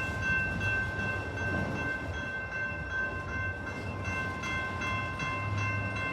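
Railroad grade-crossing bell ringing steadily with a fast, even ding, over a low rumble, just after the end of a train has passed.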